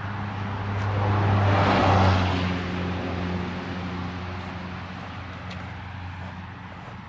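A motor vehicle passes on the road: rushing tyre and engine noise swells to its loudest about two seconds in, then slowly fades, over a steady low engine hum.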